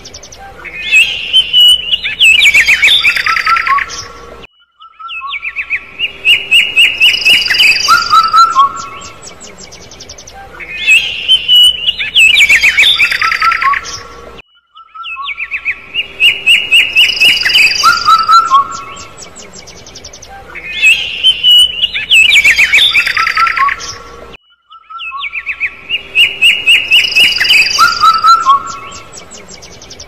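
Small birds chirping and trilling in quick runs of high notes. The same phrase repeats about every ten seconds, with a brief silent break before each repeat.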